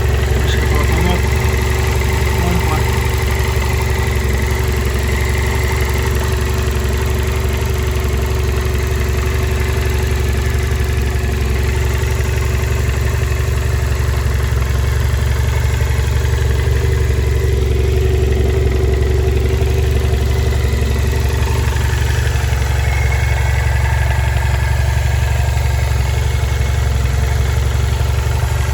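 BMW F650GS motorcycle's 798 cc parallel-twin engine idling steadily.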